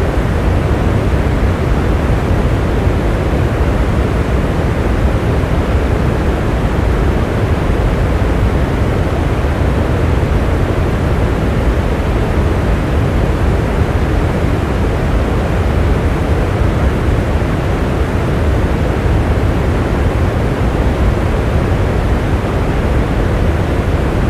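Steady, unbroken rain noise, a dense even wash heaviest in the low tones, with no single drops or thunder standing out.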